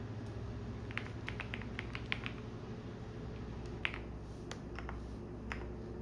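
Computer keyboard typing: a quick run of keystrokes a second or two in, then scattered single clicks, over the steady low hum of a washing machine running.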